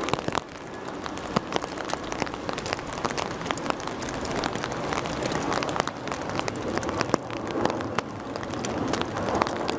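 Rain falling, with many sharp drop ticks close to the microphone over a steady rushing noise.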